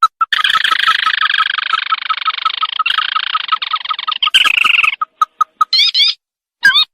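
Recorded lure call of the sintar (tikusan mata merah) crake. A fast run of short notes, about five a second, turns into a dense churring trill lasting about five seconds, followed by a few scattered notes and short rising calls near the end.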